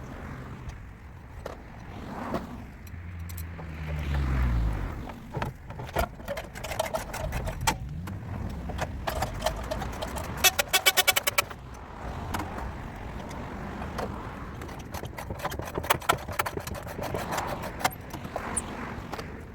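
Tools and metal parts being worked on a car: many scattered metallic clicks and knocks. A low hum falls in pitch about four seconds in, and a fast run of clicks comes about halfway through.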